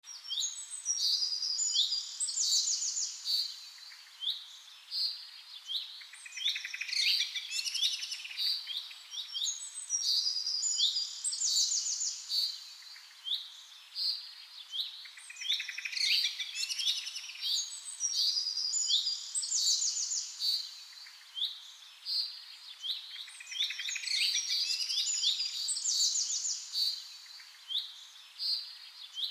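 Small songbirds chirping and singing: clusters of quick trills and short whistled notes that come again every second or two.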